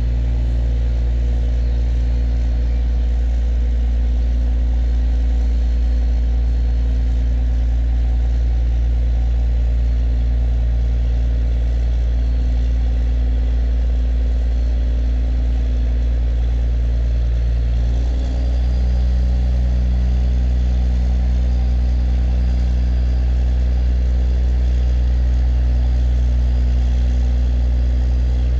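River tugboat's engine running steadily under load while towing a cargo barge, a deep, even drone. About 18 seconds in the note dips briefly, then settles at a slightly different pitch.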